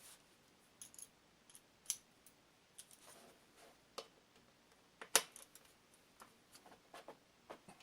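Scattered light metallic clicks and clinks of hand tools and small engine parts being handled, the sharpest about five seconds in.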